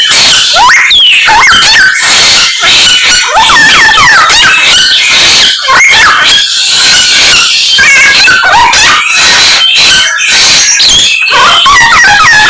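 Songbird singing a loud, rapid, continuous song of varied whistles, chirps and sliding notes, packed with mimicked calls of other birds.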